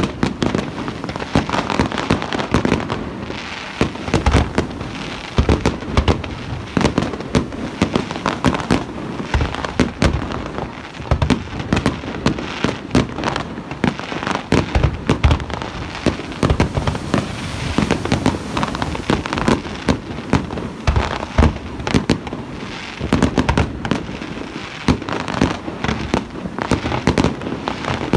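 Fireworks display: aerial shells bursting in quick succession, a dense, near-continuous barrage of sharp bangs.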